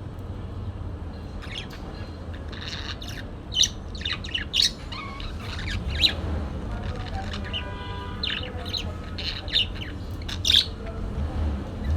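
Parakeet chirping and squawking in short, sharp calls, with one longer, more drawn-out call about two-thirds of the way through, over a steady low rumble.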